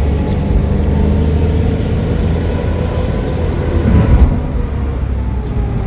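A car running on the road: a steady low rumble of engine and road noise, swelling briefly about two thirds of the way through.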